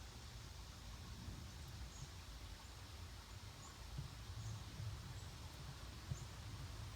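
Faint outdoor ambience: a low rumble with a few soft thumps, and small high chirps roughly once a second.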